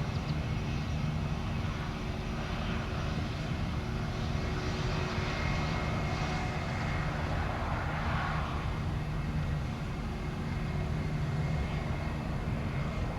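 Jet airliner engines running at an airport, a steady engine noise with a low hum and a faint high whine in the middle.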